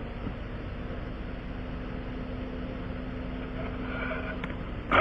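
A motor running steadily with a low drone and a faint steady tone. Right at the end a much louder sound cuts in abruptly.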